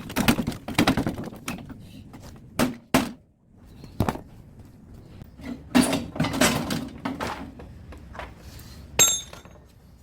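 Knocks, clatter and clanks of metal being struck and pried as a scrapped air-conditioner outdoor unit is taken apart by hand, with one sharp ringing metal clang about nine seconds in.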